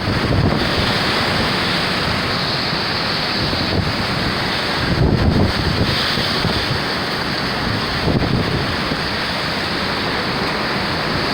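Hurricane wind blowing steadily, with gusts buffeting the microphone about half a second, five seconds and eight seconds in.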